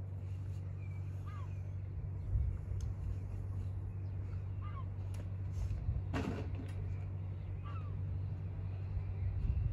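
A few short bird calls over a steady low rumble, with one sharp clatter about six seconds in.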